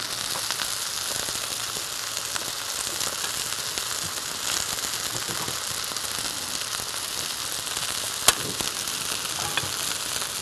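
Food sizzling steadily as it fries in a pan, with a sharp click about eight seconds in and a fainter one a second later.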